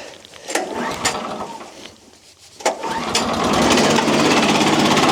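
Mechmaxx sawmill's small gasoline engine being cranked after two weeks unused: a few clicks of handling, then a little past halfway it catches at once and settles into steady running.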